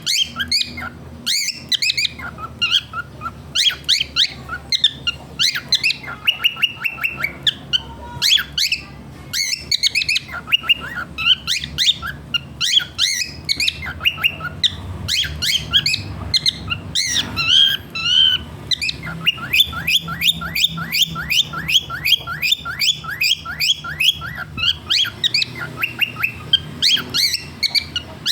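Cockatiel chattering nonstop with quick chirps and short whistled calls, with a fast run of repeated chirps, several a second, about two-thirds of the way through.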